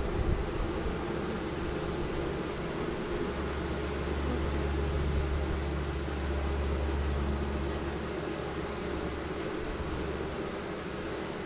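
Honey bees buzzing steadily around a newly hived swarm, with bees fanning at the box. A low rumble swells in the middle and fades.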